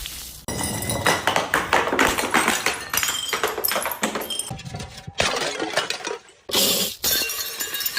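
Glass shattering and crunching: a rapid run of breaking and clinking impacts, with brief pauses about five seconds and six and a half seconds in.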